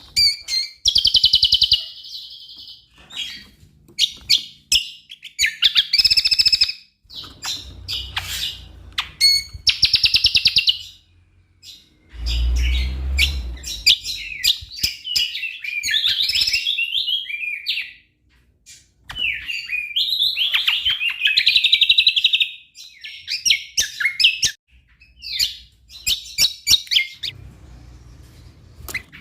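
Cucak kombo (kecial kombo) songbird singing in loud bursts of rapid, varied chirps and trills, phrase after phrase with short pauses between. A low thump and rumble comes about twelve seconds in.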